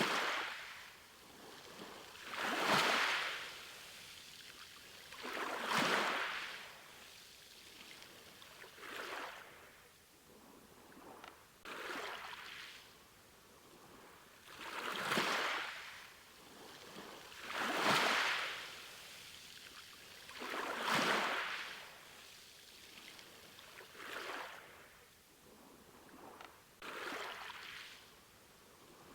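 Ocean waves washing in, each one a rush of surf that swells and fades, coming about every three seconds.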